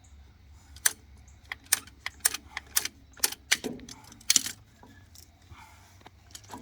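About a dozen sharp metallic clicks and clinks, irregularly spaced over three or four seconds, as a pipe end is trimmed a little shorter to fit the pump plumbing, followed by quieter handling sounds.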